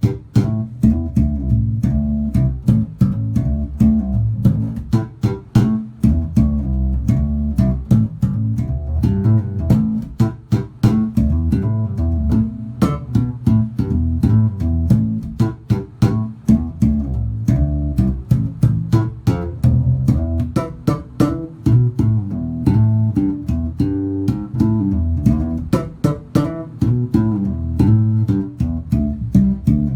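Electric bass guitar played through a Lanzi Tornado 4001 bass amplifier: a busy line of plucked notes with sharp, clicky attacks and a full low end.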